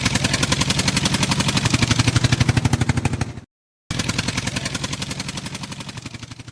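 A rapid, even chugging engine-like sound, many pulses a second over a low hum. It cuts out abruptly for about half a second partway through, then resumes and fades away at the end.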